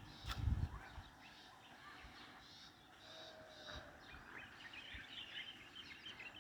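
Faint outdoor ambience with small birds chirping, the calls getting busier about two-thirds of the way in, and a few low thumps in the first second.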